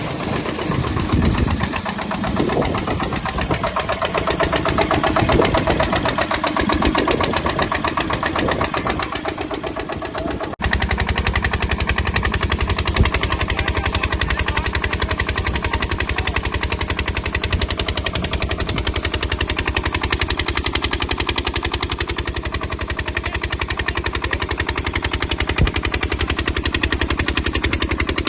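12 HP water-cooled diesel engine of a water-pump set running with a rapid, even firing beat. About ten seconds in the sound changes abruptly and from then on runs steady and full.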